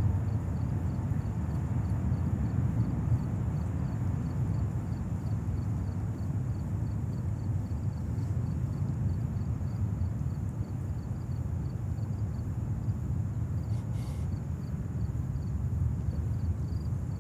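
Steady low rumble of the Emirates Airbus A380's four Engine Alliance GP7200 turbofans at takeoff thrust.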